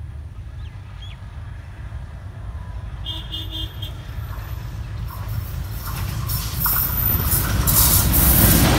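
Diesel locomotive hauling a passenger train approaching along the track, its rumble and wheel noise growing steadily louder as it draws close. A brief high tone sounds about three seconds in.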